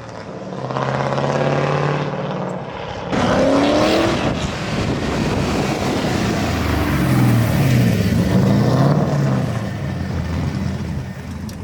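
Built LS6 V8 in a BMW E36 drift car, running through a muffler-less straight-pipe exhaust. It holds a steady note early on, revs up sharply about three seconds in, then its revs swing up and down repeatedly near the end, as under drifting.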